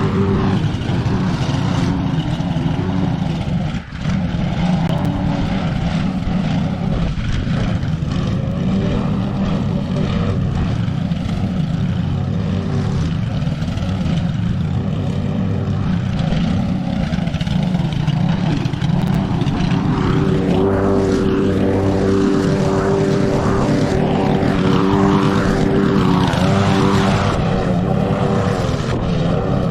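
Petrol lawn mower engine running steadily as it cuts thick wet grass, with a brief dip in level about four seconds in.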